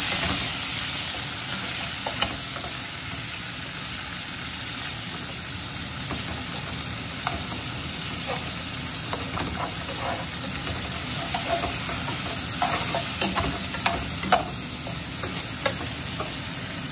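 Chicken strips and garlic frying in shallow oil in a pan: a steady sizzle, with a spatula scraping and tapping against the pan now and then in the second half.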